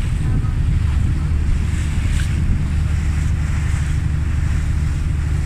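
A tour boat's engine running steadily under way, with water rushing past the hull and wind buffeting the microphone.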